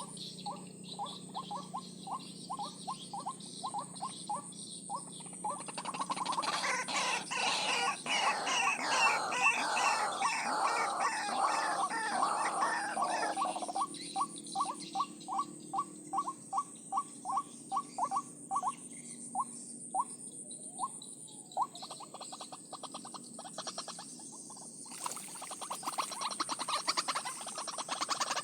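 White-breasted waterhen calls: a long series of short notes repeated about three times a second, building into a dense overlapping chorus of calls in the middle, then back to single repeated notes. A steady high whine runs underneath.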